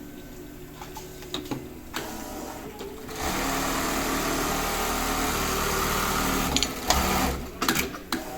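Yuki 30×20 embroidery machine, a unit that shifts its stitching out to the side, starting about three seconds in and stitching steadily for about four seconds, then stopping with a quick run of clicks and knocks.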